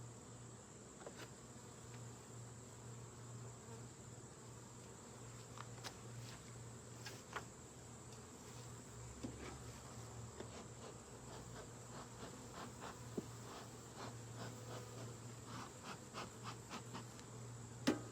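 Honeybees buzzing around the hive in a faint, steady hum, with scattered light clicks and knocks that come more often in the second half and a sharper knock near the end.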